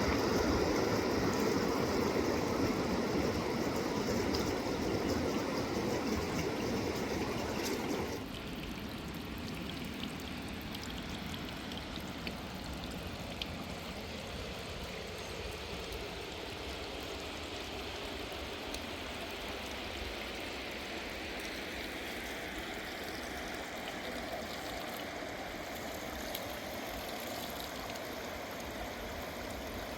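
Fast river water rushing. About eight seconds in it drops abruptly to a quieter, softer flow.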